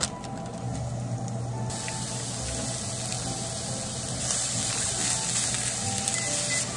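Julienned carrots, enoki mushrooms and minced meat sizzling steadily in oil in a frying pan as they are stirred with a spatula. The hiss grows brighter about two seconds in.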